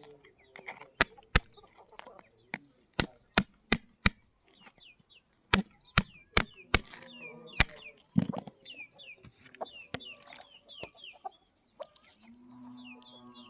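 Sharp knocks or clicks, irregularly spaced, about twenty in all. Through the middle run clusters of short, falling bird chirps.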